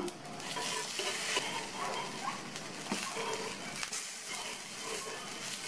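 Masala-coated brinjal slices sizzling steadily in hot oil on a dosa tawa as they are turned over with a steel spatula, with a couple of light clicks from the spatula.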